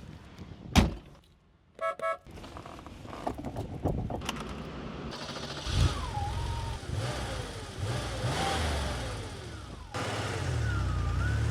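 Porsche engine running and being revved, its pitch rising and falling, with an abrupt cut about ten seconds in to a louder stretch of engine. Before the engine comes in there is a sharp click just under a second in and a short electronic beep about two seconds in.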